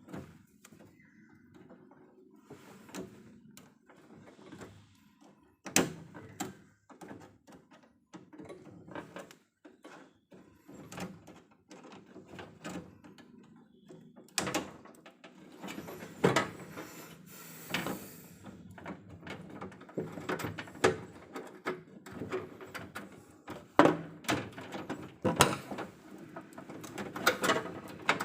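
Irregular clicks, taps and clunks of hand tools and metal parts being handled during repair work on an electrical distribution panel, coming more often in the second half, over a low steady hum.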